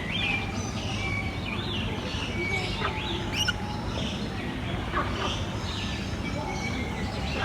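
Many birds calling together in an aviary: a busy mix of short overlapping chirps and whistled calls that swoop up and down in pitch, over a steady low background rumble.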